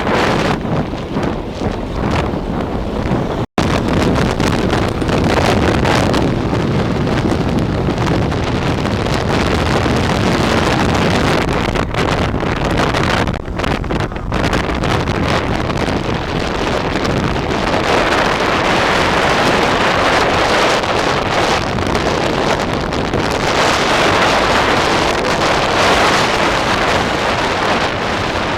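A moving passenger train's running noise buried under heavy wind buffeting on the microphone, a loud steady rush that cuts out for an instant about three and a half seconds in.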